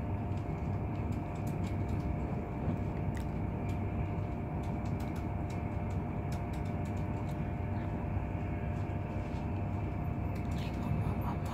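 Steady running noise inside a Mark 4 coach of an InterCity 225 train at speed: a low rumble from the wheels on the rails, a faint steady whine and a few light ticks.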